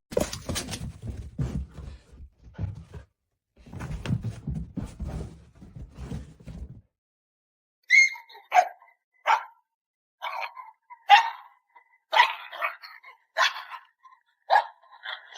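A dog barking: about ten short, sharp barks spaced roughly half a second to a second apart over the second half, after several seconds of low scuffling and knocking noise.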